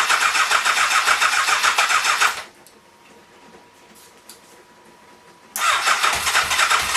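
Electric starter cranking a Yamaha FJ1200's air-cooled inline-four engine without it firing, in two bursts of a few seconds with a pause of about three seconds between. The battery is nearly flat.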